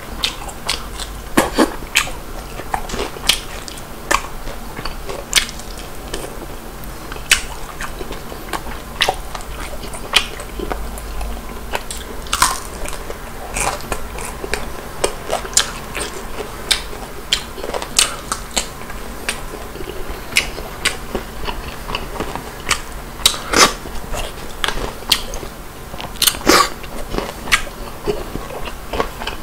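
A man biting and chewing old-style Korean fried chicken (옛날통닭), crunching through its crispy fried skin: an irregular run of sharp crunches and mouth clicks, a few of them louder.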